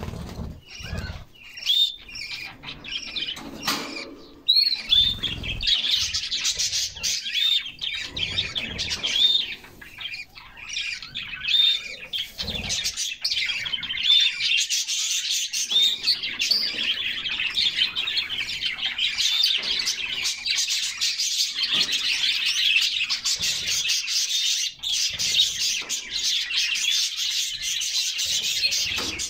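Canaries singing, a dense run of rapid chirps and warbling trills that becomes near-continuous about five seconds in. A few brief low thuds and flutters in the first half fit wing flapping.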